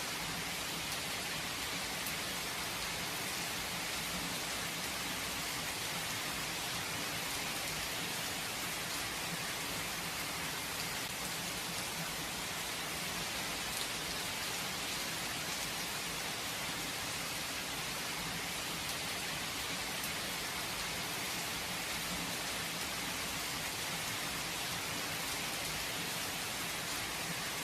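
Steady, even rain falling, a continuous hiss without thunder.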